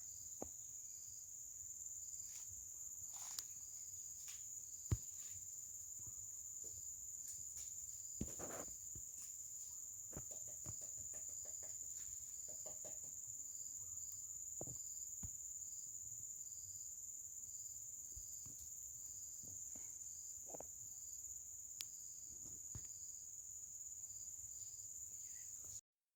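A steady, high-pitched insect chorus, crickets or similar, with a regularly pulsing chirp under the continuous buzz. Occasional faint clicks and rustles.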